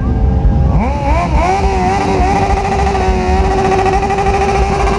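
Sport motorcycle engine revved hard: the revs climb in a couple of quick blips about a second in, then are held high and steady, over the low rumble of other idling engines.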